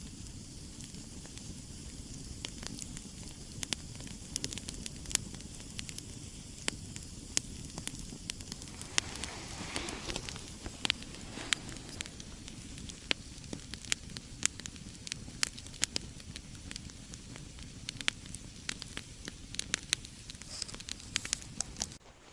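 Wood campfire crackling: many sharp, irregular pops over a steady low background noise.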